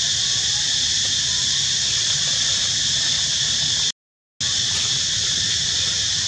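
Steady high-pitched drone of an insect chorus, with a complete half-second drop-out about four seconds in.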